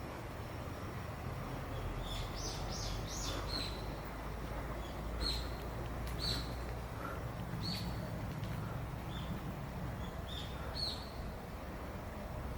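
Short, high chirps of a small bird, repeated every second or so, over a steady low background rumble.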